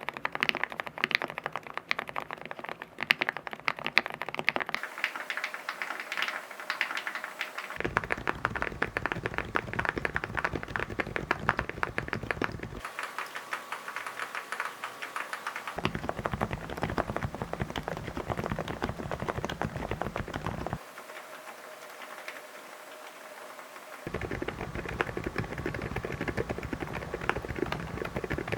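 Fast, continuous typing on low-noise (silent-switch) keyboards, a dense run of soft key clicks, with the sound cutting from one keyboard to the next every few seconds. One board, about three quarters of the way through, is noticeably quieter than the rest.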